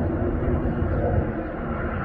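Tractor engine running steadily as it works a field sowing seed, a continuous low rumble with no breaks.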